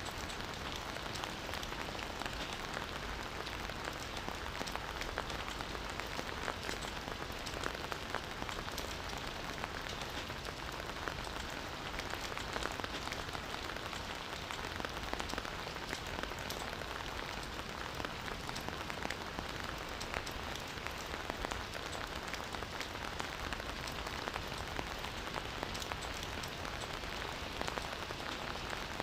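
Steady rainfall, a constant hiss of rain with many individual drops pattering on leaves and ground, without change or pause.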